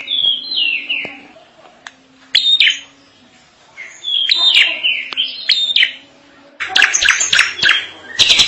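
Drongo singing: short phrases of slurred whistled notes, then, about two-thirds of the way through, a harsh, rapid chattering run.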